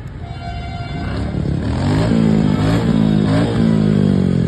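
A large vehicle's engine revving up: its low hum climbs in pitch and loudness about a second and a half in, then holds steady under load.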